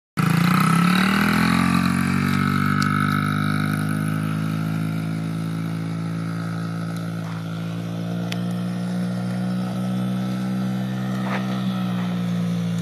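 Honda XR50 dirt bike's small single-cylinder four-stroke engine running. Its pitch drops over the first second or so, then it holds a steady speed.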